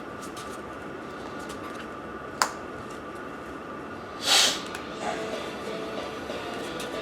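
Steady room hum with a single sharp click about two and a half seconds in and a short rush of noise a little after four seconds. Faint music comes in about five seconds in.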